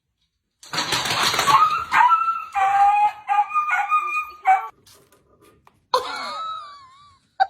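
A dog giving a run of short, high-pitched yips and howls. After a pause, it gives one more wavering call near the end.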